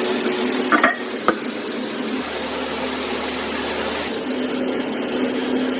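Engine-assembly workshop noise: a steady mechanical hum with two sharp knocks close together about a second in.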